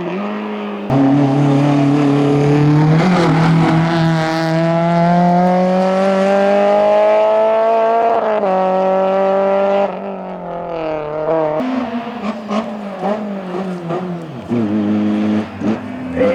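Race car engine at full throttle, its revs climbing steadily through one long pull before an upshift drops the pitch about eight seconds in. After that it goes quieter and uneven, with the revs rising and dropping through short lifts and shifts.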